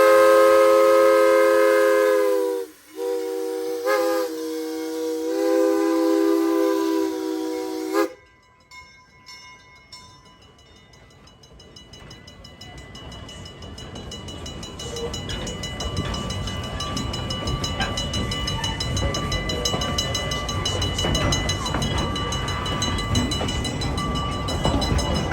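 Steam locomotive whistle sounding several notes at once in long blasts, broken briefly twice, then cutting off abruptly about eight seconds in. After that the low rumble of the train rises steadily as it gets moving.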